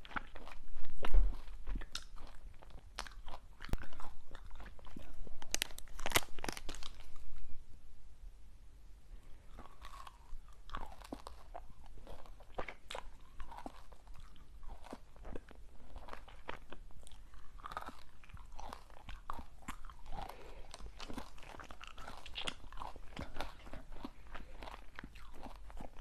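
Crunchy sweets being bitten and chewed close to the microphone: loud cracking bites over the first several seconds, then quieter, steady chewing with small crackles.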